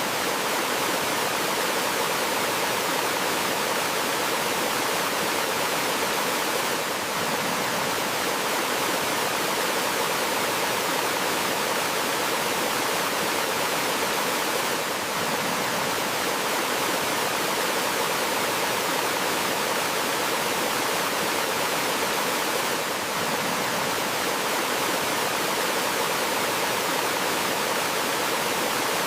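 Running water from a small stream or waterfall: a steady, even rush with a slight dip in level about every eight seconds.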